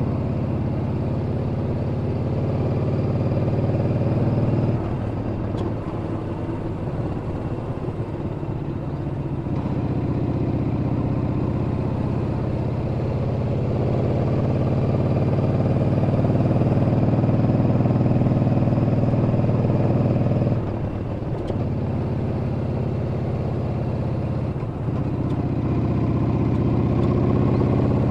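Yamaha Bolt's air-cooled V-twin engine running steadily under way. It eases off about five seconds in and picks up again a few seconds later, with two short dips near the end.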